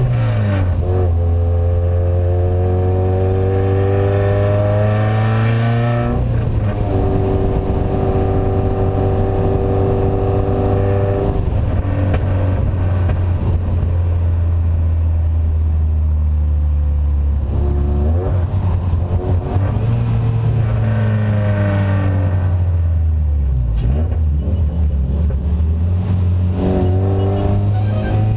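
Engine of a vehicle with an open, straight-piped exhaust driving under load. Its pitch climbs and then drops sharply at a gear change, holds steady for a few seconds, falls away to an uneven lower note, then rises again twice with another shift between.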